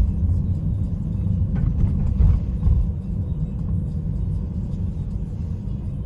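Low, steady road and engine rumble heard from inside a moving vehicle, with a brief louder bump a little over two seconds in.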